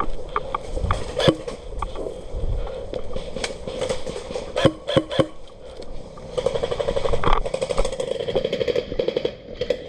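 Scattered sharp clicks and knocks, then from about six seconds in a rapid, evenly spaced rattle lasting about three seconds: an airsoft electric gun firing a full-auto burst.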